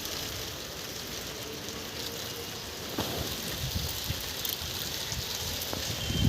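Steady rain falling, an even hiss with a few sharper drip ticks.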